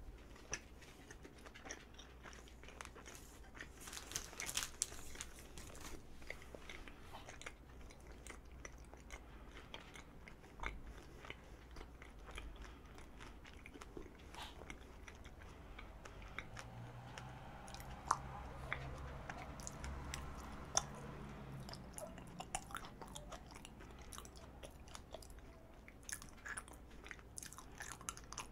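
Close-miked chewing of a strawberry chapssaltteok, a chewy glutinous rice cake filled with a fresh strawberry and soft red bean paste: soft, wet mouth clicks and smacks.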